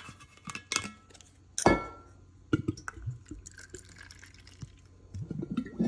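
Liquor being poured from a glass bottle into shot glasses, with scattered glass clinks and one sharp knock with a short ring about a second and a half in.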